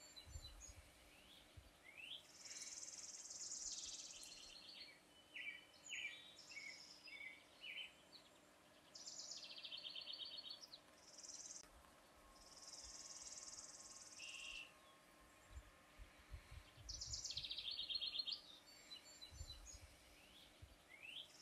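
Faint songbirds singing: a string of separate high chirps, trills and buzzy phrases with short gaps between them.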